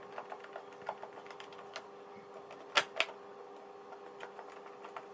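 Scattered small clicks and clacks of the vacuum cleaner's plastic housing parts and screws being handled and fitted, with two louder clacks close together about three seconds in, over a faint steady hum.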